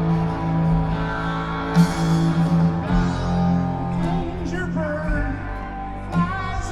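Live rock band playing a slow, heavy song on electric guitars, bass and drums, with a voice singing over it in the second half.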